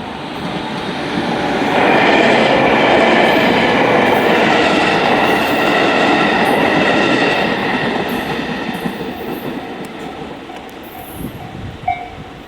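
Electric train passing over a level crossing. The rumble of wheels on rail swells about two seconds in, stays loud for several seconds with high steady tones on top, then fades. The crossing's JR standard electronic alarm rings underneath, heard again as the train fades.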